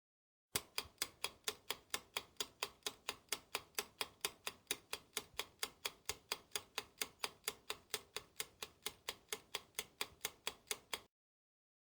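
Clock-ticking sound effect: a fast, even run of sharp ticks, about four a second, that starts abruptly and cuts off abruptly about ten seconds later, like a countdown timer.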